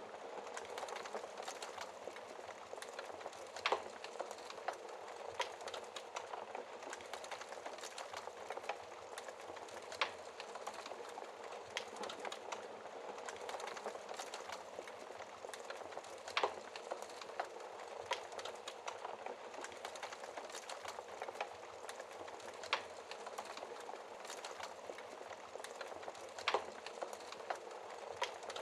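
Wood fire burning in a fireplace, crackling steadily with frequent small pops and a few louder sharp pops every several seconds.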